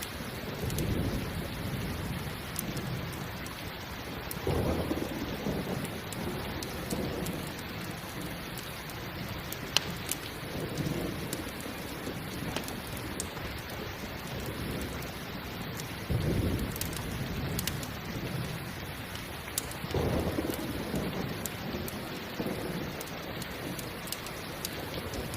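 Steady rain with low rumbles of thunder rolling in every few seconds, and scattered sharp crackles from a campfire.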